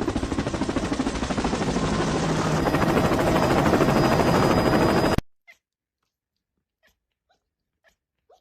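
A cat purring loudly and close up, a fast rapid pulsing that cuts off abruptly about five seconds in, followed by a few faint clicks.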